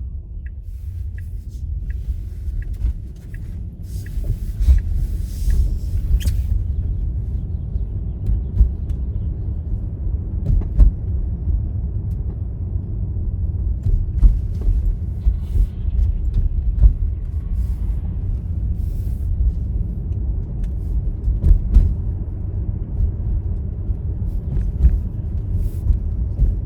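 Car driving on a snowy road, heard from inside the cabin: a steady low rumble of tyres and engine, with scattered short clicks and knocks.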